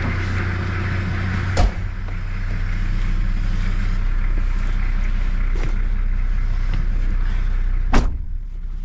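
Toyota Land Cruiser engine idling with a steady low hum, and two heavy thumps of car doors shutting, about one and a half seconds in and near the end.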